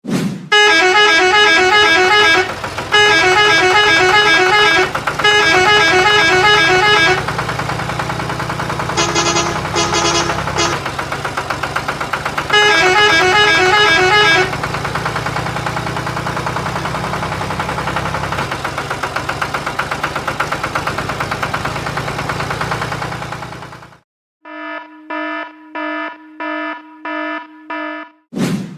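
A heavy vehicle engine running with a steady pulsing rumble. A truck horn sounds over it in several long, repeated honking stretches. The engine cuts off suddenly near the end, and a series of five short beeps follows.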